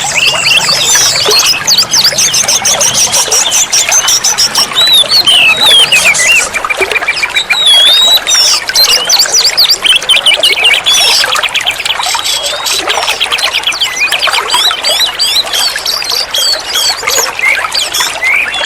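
Oriental magpie-robin (kacer) singing without a break: a loud, varied stream of quick whistles, slurred glides and fast trills.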